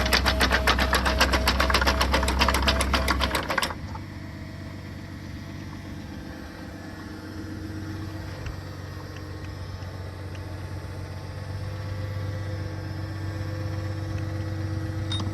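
Post-hole auger machine working with a loud, fast, even chatter while the auger bit is pressed onto a tree root in frozen ground. About four seconds in it drops to a quieter, steady running hum.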